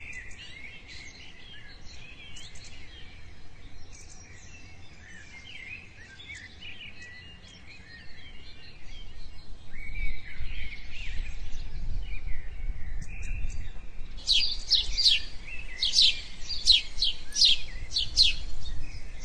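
Birds chirping and singing in a tree-filled park, with a run of loud, rapidly repeated sharp calls in the last five seconds. A low rumble comes in about halfway through.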